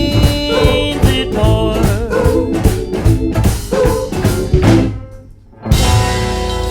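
A band playing the instrumental close of a country-blues song, with drums, guitar and organ on a steady beat. About five seconds in the band stops, then hits a final chord that rings on.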